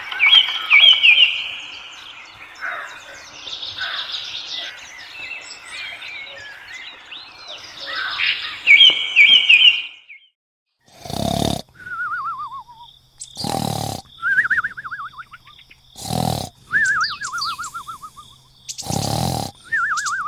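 Birds chirping with short repeated trills for about ten seconds. After a brief gap comes a cartoon snoring sound effect: a loud snore then a falling, wavering whistle, four times about every two and a half to three seconds.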